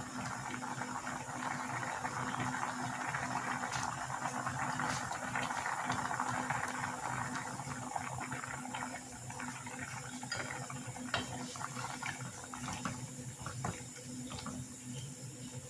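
Chicken and banana-heart stew in coconut milk bubbling in a pot, the boil easing off about halfway through, with a few light clicks of utensils.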